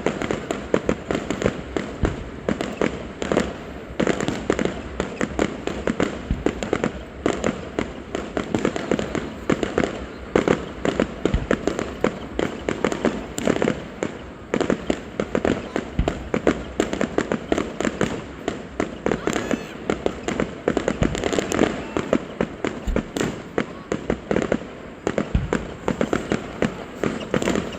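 Fireworks going off in rapid succession: a steady run of sharp bangs and crackles, several a second.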